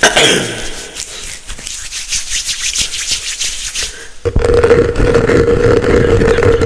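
Close-up ASMR rubbing and scratching on the microphone: about four seconds of quick crackly scratches, then from about four seconds in a louder, denser rubbing with a low rumble and a steady hum underneath.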